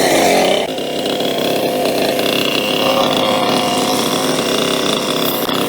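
Small Kawasaki motorcycle engine running: the revs fall away in the first second, then it holds a steady buzzing run.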